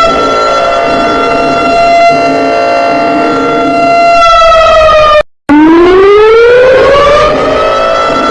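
Civil defense siren sounding a steady wail, winding down a little before the five-second mark, cutting out abruptly for a moment, then winding back up to its full pitch and holding it.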